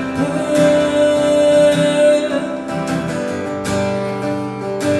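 Live acoustic guitar strumming between sung lines, with one steady note held for about two seconds near the start.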